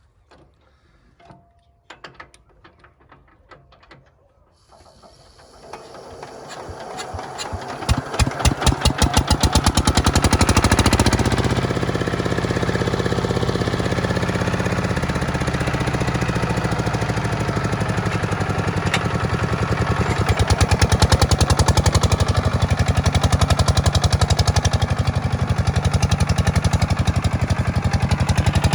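A few faint clicks, then a diesel tractor engine comes in about four seconds in, its beat quickening as it rises to speed, then running steadily with a hard, even knock.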